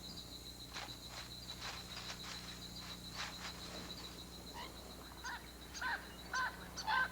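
Nature ambience with a faint steady high whine. From about halfway through comes a run of short, repeated chirping animal calls, about two a second.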